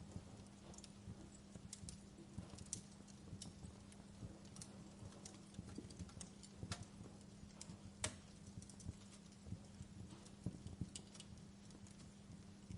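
Wood fire crackling in a fireplace: irregular sharp pops and snaps over a soft steady hiss, with a faint low hum underneath. The loudest snap comes about eight seconds in.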